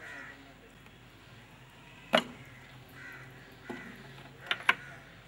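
Bird calls repeating about once a second, with a sharp knock about two seconds in and two quick clicks near the end.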